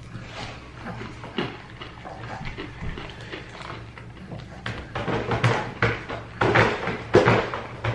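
Close-up eating of crunchy fried chicken: soft tearing and handling sounds at first, then repeated sharp crunches of chewing, about three a second, that grow louder through the second half.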